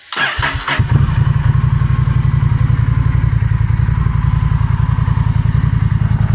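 Honda Rebel 1100's parallel-twin engine, breathing through a Cobra slip-on exhaust, cranked by the starter and catching about a second in. It then idles steadily with an even, low pulsing beat, sounding just a little louder than stock.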